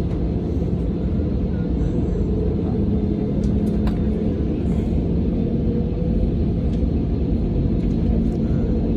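Steady low drone inside an airliner cabin on the ground before takeoff, with a constant low hum from the engines and cabin air system.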